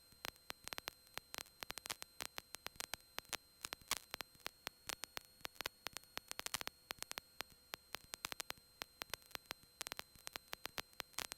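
Faint static crackle: irregular sharp clicks, several a second, over a faint steady hum, with no voice on the line.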